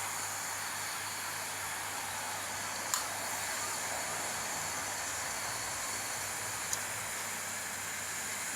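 Steady hiss of steam escaping from a miniature steam locomotive, with two short sharp clicks, one about three seconds in and one near the end.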